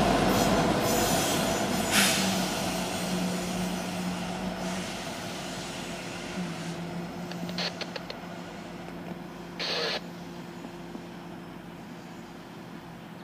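Norfolk Southern freight train's trailing diesel locomotives and cars rolling away, a steady low engine drone with wheel and rail noise fading as the train recedes. A brief high squeal comes about two seconds in, and a short rush of noise about ten seconds in.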